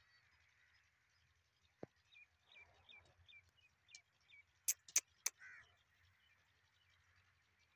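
Faint birdsong: a run of about seven short chirps, each about a third of a second apart. After them come three sharp clicks in quick succession, the loudest sounds, then a short harsh call.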